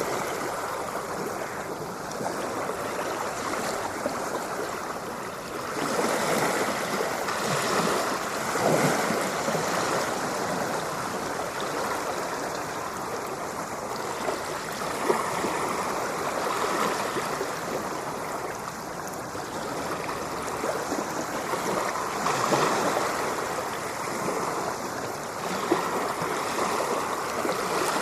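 Ocean surf: a continuous rush of breaking and washing waves that swells and eases every few seconds.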